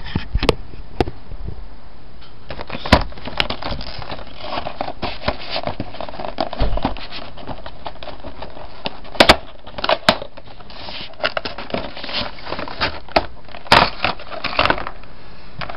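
Packaging of a boxed diecast model being handled: crinkling and rustling, broken by sharp clicks and knocks every few seconds.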